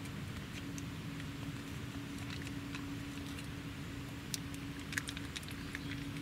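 Steady patter of heavy rain on the tent, with scattered small clicks and clinks of tableware as noodles are served onto a large plate; two sharper clicks come near the end. A faint steady hum runs underneath.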